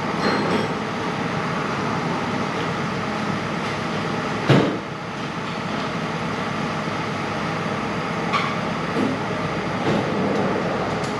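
Cordless electric ratchet working the starter's mounting bolt loose, with light metal clicks and one sharp metallic clank about four and a half seconds in, over a steady background rumble.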